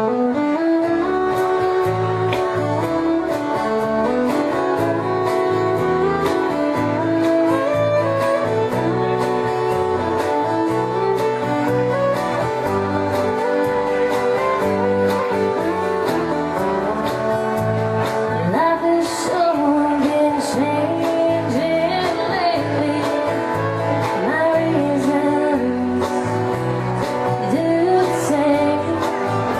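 Country band playing a song: guitars and bass over a steady beat, with a voice singing.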